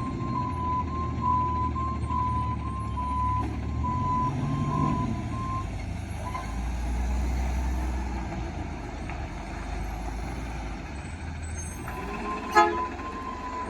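Side-loader garbage truck reversing: its engine runs steadily under a backup alarm beeping at an even rate. The beeping stops about five seconds in and starts again near the end, just before a brief sharp, loud sound.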